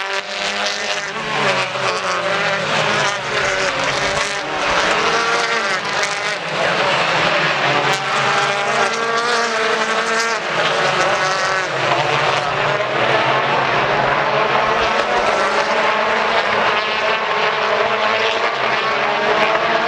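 Several BTCC touring cars running at high revs at the circuit, engines rising and falling in pitch as they accelerate, shift and pass, with more than one car heard at once.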